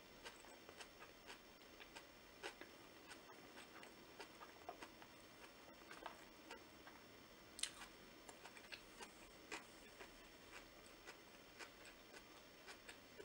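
Faint close-up chewing of a fresh Vietnamese rice-paper roll with lettuce and noodles: soft wet mouth clicks and smacks a few times a second, with one sharper click about halfway through.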